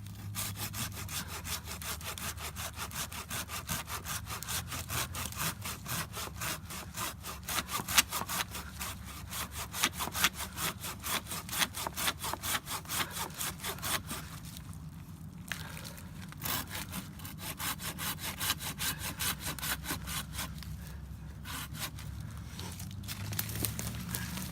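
Hand saw cutting through wood in steady back-and-forth strokes, about three to four a second. There is a pause of a second or two about 15 s in, and a shorter break near 21 s.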